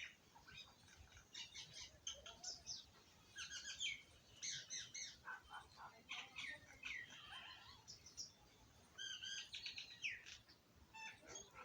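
Small birds chirping in quick, overlapping bursts of high notes and short trills, several calling at once, as birds do when squabbling over food.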